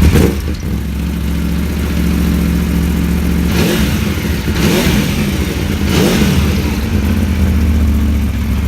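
Aprilia Tuono V4 1000's V4 engine flaring as it catches on start-up, then idling, with three short blips of the throttle about a second apart in the middle.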